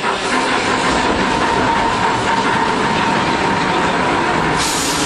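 Older Iyo Railway streetcar running, heard from inside the car: a steady rumble of wheels on rail with a steady whine running through it. A brief hiss comes near the end.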